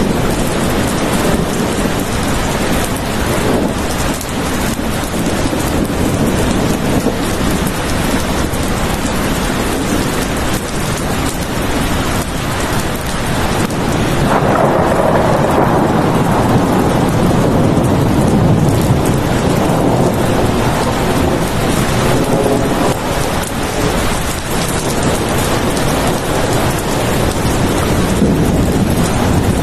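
Steady rain falling, with a roll of thunder that starts suddenly about halfway through and dies away over several seconds.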